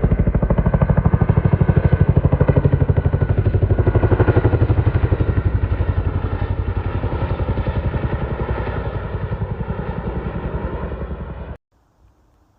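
A machine running with a rapid, even pulse, slowly fading, then cutting off suddenly near the end.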